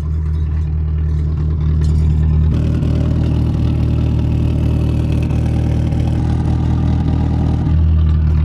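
Ford Pinto four-cylinder engine running through a short exhaust pipe with a loose motorcycle muffler held to its end to test its tone. The exhaust note turns louder and rougher about two and a half seconds in and settles back near the end.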